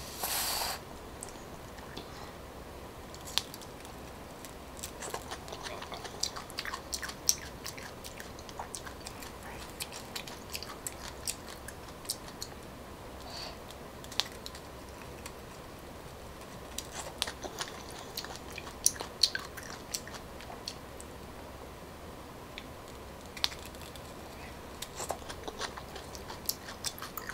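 Close-up chewing and biting of live coconut larvae (palm weevil grubs): sparse, irregular soft wet clicks and smacks of the mouth.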